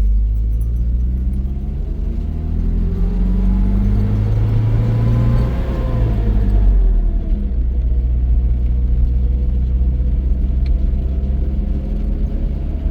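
Motor vehicle engine running with a strong low rumble, its pitch climbing over the first five seconds, dropping about six seconds in, then holding steady.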